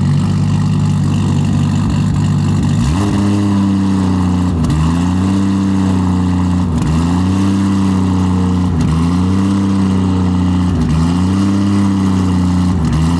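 2JZ straight-six of a 1000 hp drift car idling, then revved repeatedly from about three seconds in. Each rev rises, holds and drops back, about every two seconds. The whistle insert bolted into the exhaust makes no audible difference to the sound.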